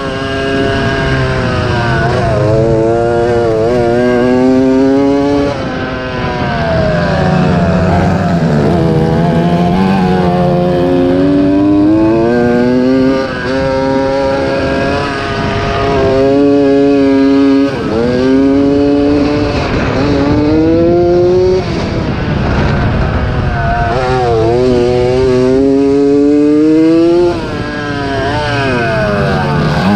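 Yamaha YZ80 two-stroke single-cylinder motocross engine racing under hard throttle, its pitch climbing through the gears again and again and falling away sharply each time the throttle is shut off, about five times.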